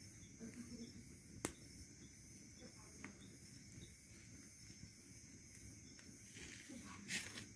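Faint, steady chirring of night insects such as crickets, with one sharp crack about a second and a half in and a short hiss near the end.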